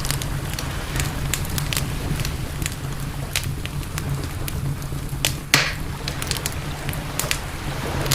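Campfire crackling, with frequent sharp pops and one louder pop with a short hiss about five and a half seconds in, over a steady low rumble.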